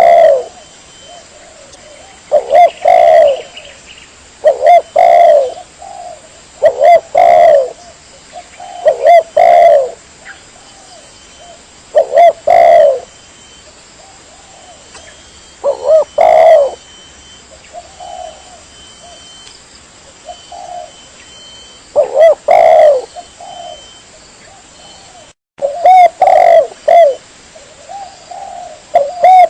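Spotted dove (tekukur) cooing, used as a lure call for trapping doves. It sings short phrases of a few coos each, repeated every couple of seconds, with longer pauses in the middle, and the sound cuts out for a moment near the end.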